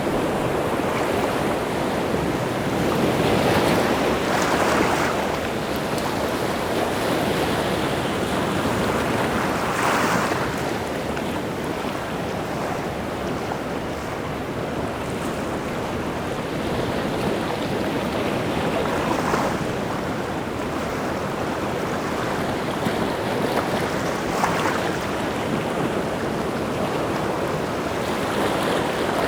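Rough, wind-driven sea surf breaking continuously, with waves crashing louder about every five to ten seconds.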